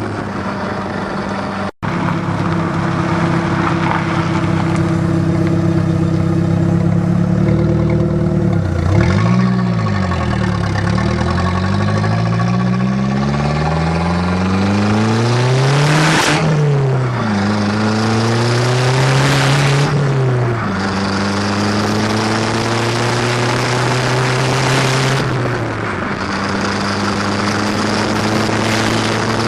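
Exhaust of a turbocharged Shelby Z Aries heard from under the rear of the car at speed, with wind and road noise. The engine note climbs under acceleration and drops sharply at each gear change.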